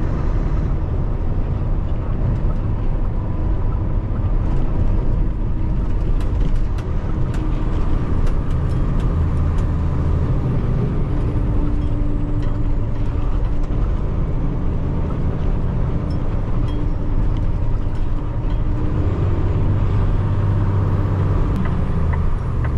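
Peterbilt 589 dump truck's diesel engine running steadily under way, with a scatter of light clicks and rattles around the middle.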